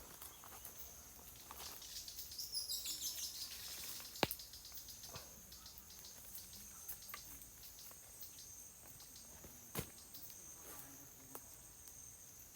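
Insects chirring steadily at a high pitch, with a quick falling series of chirps a few seconds in and two sharp knocks, one at about four seconds and one near ten seconds.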